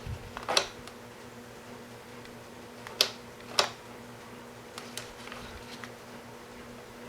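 A few sharp clicks and light knocks from small electronic parts being handled, two of the loudest a little over half a second apart midway through, over a faint steady electrical hum.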